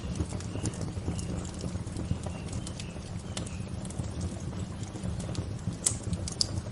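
Campfire crackling: irregular sharp pops and snaps over a steady low rumble, with one louder snap about six seconds in.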